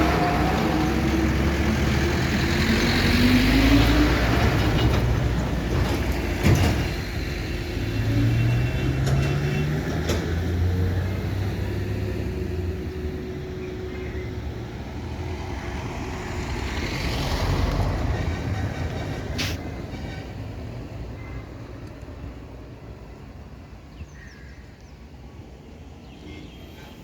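Heavy truck engines running on a hill road, rising in pitch twice as they pull, with a few sharp clicks along the way; the engine sound fades away over the last several seconds.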